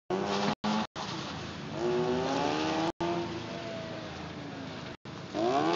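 Mazda RX-8's twin-rotor Wankel rotary engine revving as the car is driven hard through an autocross course, the pitch climbing twice as it accelerates. The sound cuts out completely for an instant several times.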